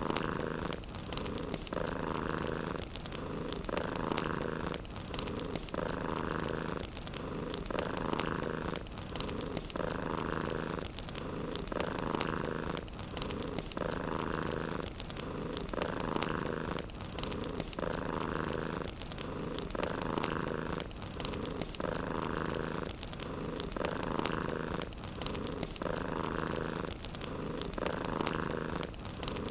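Domestic cat purring close up, swelling and pausing with its breathing about once every two seconds, over the light crackle of a wood fire.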